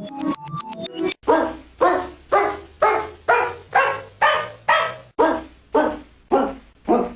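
A quick run of bright musical notes, then from about a second in a dog barking in a steady, even series of about two barks a second, with a short break about five seconds in.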